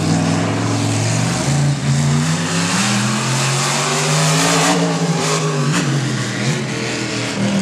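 Monster truck engine revving hard, its pitch climbing and falling as the throttle is worked, with a few sharp impacts about five seconds in.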